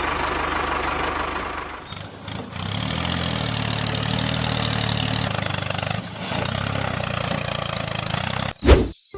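Tractor engine running steadily, its low hum growing stronger about two and a half seconds in. A brief loud burst near the end.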